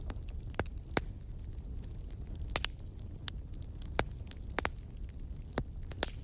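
Fireplace fire crackling: irregular sharp pops and snaps, several in a few seconds, over a low steady rumble of the burning fire.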